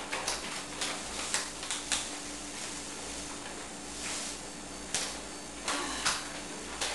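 Kitchen handling noises: a scattered run of light clicks and knocks, with a short rustle about four seconds in, over a faint steady hum.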